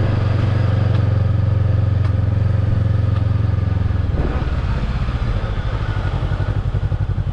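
Motorcycle engine running, loud and close; about four seconds in its note drops lower into a slower, evenly pulsing beat.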